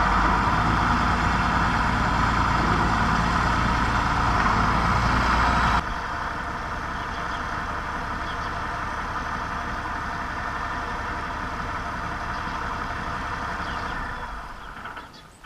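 Tractor engine idling steadily. About six seconds in the low rumble drops away abruptly, leaving a quieter steady running sound that fades out near the end.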